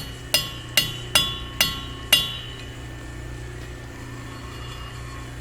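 Hammer tapping a metal driveshaft tube held in a lathe, six ringing taps about half a second apart in the first two seconds. The taps nudge the tube to take out its wobble.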